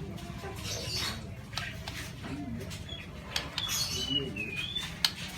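Birds chirping in short whistled notes, clustered a little past halfway, among scattered clicks, with one sharp tap near the end.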